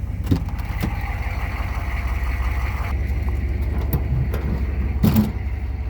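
A 6.5 L V8 turbo diesel in a 1998 Chevrolet 2500 pickup idling steadily with an even low rumble. A few sharp knocks sound over it, the loudest about five seconds in.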